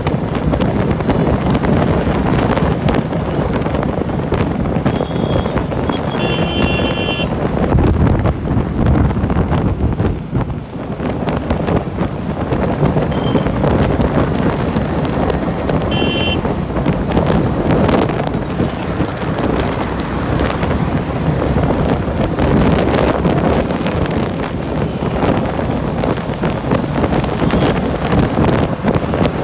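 Wind buffeting the microphone during a bike ride, a loud steady rush. Two brief high-pitched ringing tones cut through it, one about six seconds in and one about sixteen seconds in.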